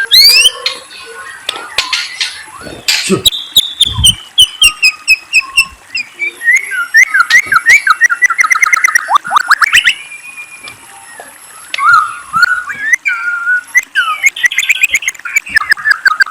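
A songbird singing a varied song of whistled notes, rising and falling glides, rapid trills and sharp clicks.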